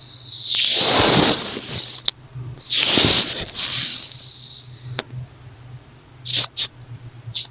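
Makeup brush bristles swishing in two long strokes, then a few short, quick brushes near the end.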